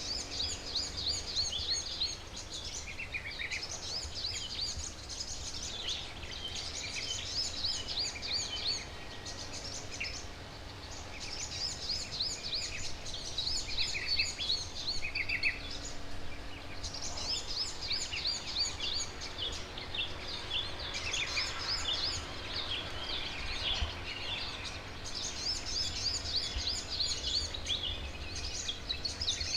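Wild garden birds chirping: quick runs of high chirps in bouts of a few seconds with short pauses between, over steady low background noise.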